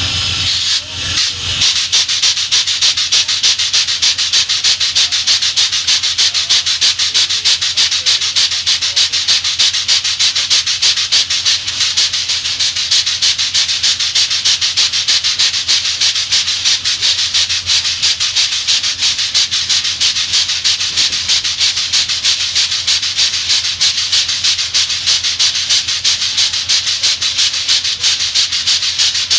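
Steam locomotive under way, its exhaust chuffing in an even, rapid beat of about four hissing puffs a second.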